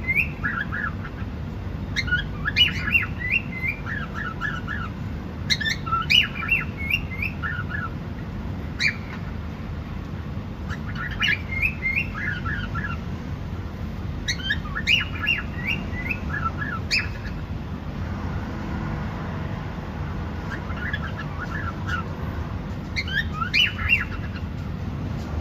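Cockatiel chirping in short bursts of quick, gliding chirps every few seconds, over a steady low background noise.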